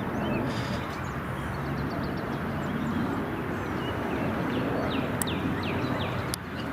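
Steady outdoor rumble with a faint low hum, and a few quick falling bird chirps about five seconds in.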